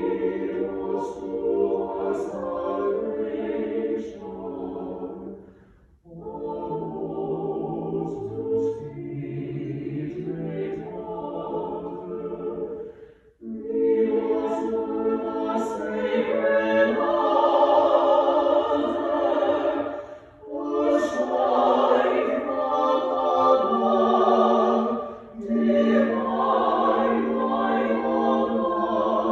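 A choir singing in long phrases of held notes, with short breaths between the phrases.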